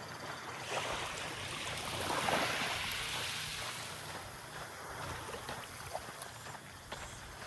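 Small sea waves washing up on the beach, swelling to a peak about two seconds in and then drawing back.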